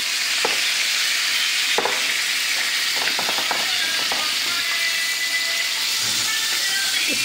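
Chicken leg quarters frying in oil in a non-stick pan, a steady sizzle with a few light ticks.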